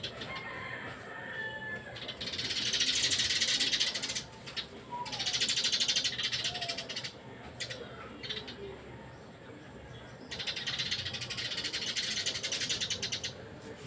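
Birds calling: three loud, rapid buzzing trills, each two to three seconds long, with thin whistled calls sliding down in pitch between them.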